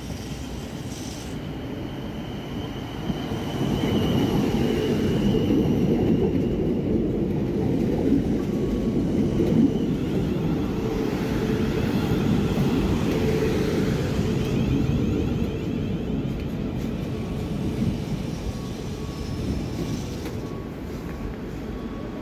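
A train running along the rails: a rumble that grows about three seconds in, stays loud for some ten seconds, then eases off, with a faint high whine over it in the first half.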